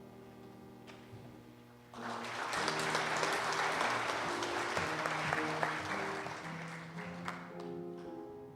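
Congregation applauding for about five seconds, starting sharply about two seconds in and fading near the end, over sustained instrumental chords that play throughout.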